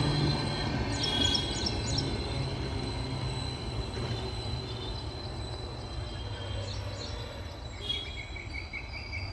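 Express train rolling past and fading away as it recedes, a steady low rumble growing quieter, with birds chirping over it about a second in and near the end.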